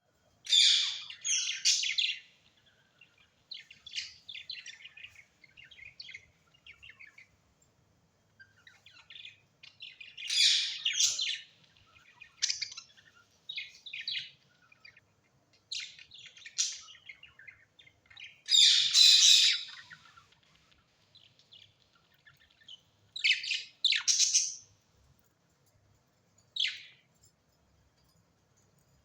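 Birds chirping and calling in short high-pitched bursts, some loud and some faint, with brief quiet pauses between them.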